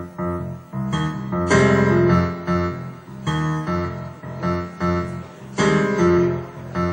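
Piano music: loud chords struck again and again in an uneven rhythm.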